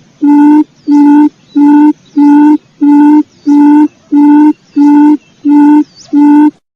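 Recorded quail lure call playing in a loop: a short, low hooting note repeated about three times every two seconds. The calls cut off shortly before the end.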